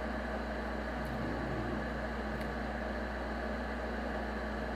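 Steady whirring noise with a low mains hum from a BSS EPC-780 power amplifier running hard on a test bench.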